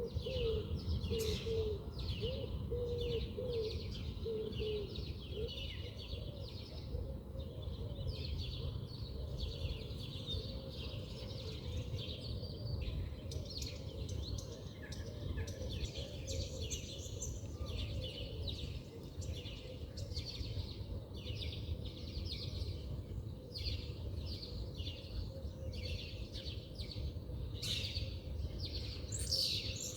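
Several small birds chirping and calling continuously, with a lower repeated call in the first few seconds, over a steady low rumble.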